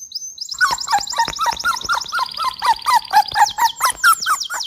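Birds chirping: rapid, evenly repeated high chirps over a second line of short, falling whistled notes.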